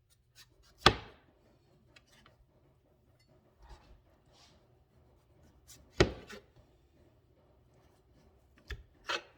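Knife cutting a mango on a cutting board: two sharp knocks of the blade on the board, about a second in and about six seconds in, with lighter taps and scraping between them and a pair of taps near the end.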